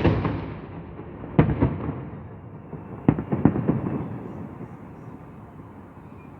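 Fireworks salute shells bursting overhead: a loud bang at the very start, another about a second and a half in, and a quick cluster of bangs around three seconds in, each trailing off in a rolling echo.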